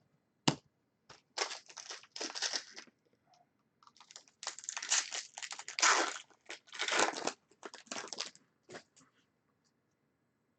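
Trading card pack wrappers being torn open and crinkled, in two runs of rustling and tearing, with a sharp tap about half a second in.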